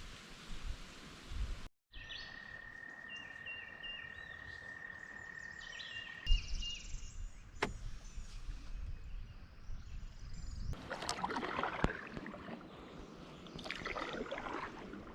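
Birds singing by a river, with one long steady whistle and several short stepped chirps. In the last few seconds there is louder water splashing and rustling.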